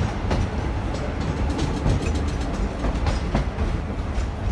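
Train running along the track, with a steady low rumble and irregular clacks from the wheels over the rails.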